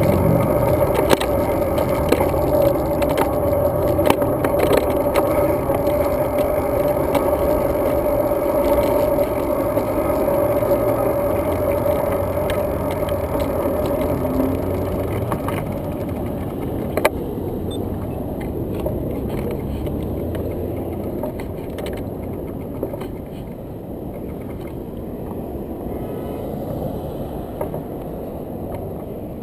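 Road bike riding noise: steady wind and rolling noise with scattered clicks and knocks from bumps. A steady hum in the first half stops about 17 seconds in, and the riding noise gets quieter after that.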